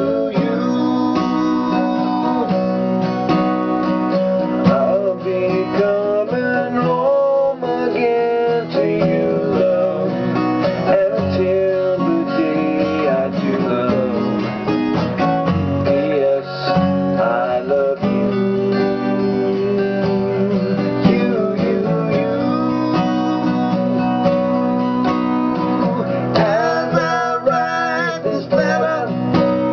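Acoustic guitar strumming chords and picking notes in an instrumental passage of a song, without singing.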